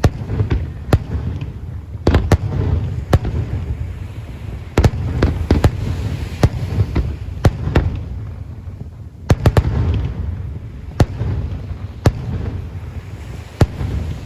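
Aerial fireworks display: an irregular run of sharp bangs from bursting shells, one or two a second, over a continuous low rumble of reports and echoes.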